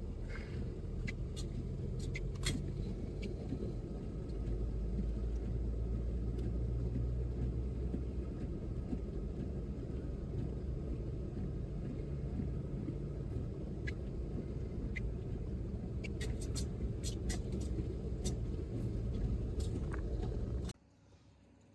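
A car driving, a steady low rumble of engine and road noise with scattered sharp clicks, cutting off suddenly near the end.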